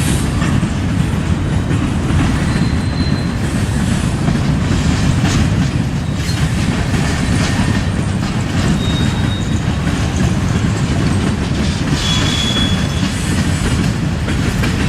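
A train's cars rolling past: a steady rumble of steel wheels on the rails, with clicking and short high wheel squeals a few times.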